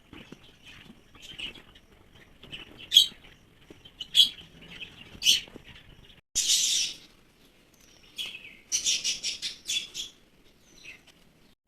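Small bird calling: three sharp single chirps about a second apart, then a harsh rasping note, then a fast chattering run of chirps.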